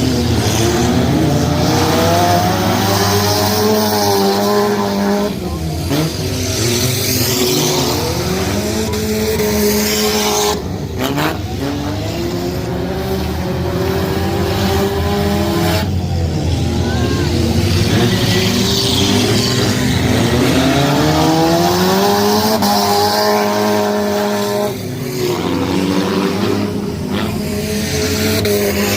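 Junk race cars' engines running hard during a race, their pitch rising and falling again and again as the cars accelerate and lift off.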